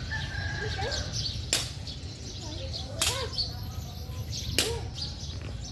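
Three sharp smacks about a second and a half apart, like an object being struck in play, with short chirping calls in between.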